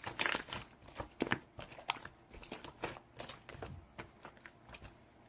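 A quick run of irregular crinkling and clicking sounds, like something being handled, each lasting a fraction of a second and stopping about five seconds in.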